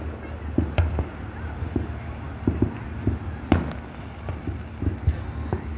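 Fireworks going off: a run of sharp bangs and pops at uneven spacing, the loudest about three and a half seconds in, over a low rumble.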